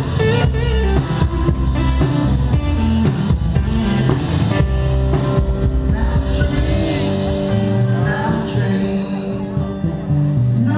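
Live rock band playing a bluesy song, with electric guitar, bass and drum kit and a voice singing over it.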